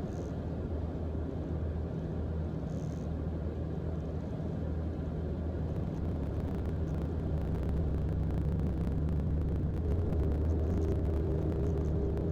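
Steady low drone of a Mooney M20J's four-cylinder engine and propeller, heard inside the cockpit, slowly growing louder, with a faint higher hum joining near the end.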